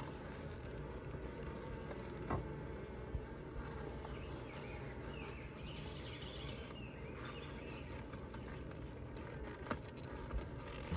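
Faint steady hum of honeybees around an open hive, with a few light clicks and knocks from wooden hive frames being handled.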